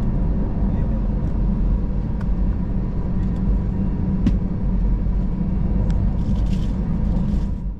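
Airbus A320 cabin noise: a steady low rumble from the engines and airframe, with a faint constant tone and a few light clicks.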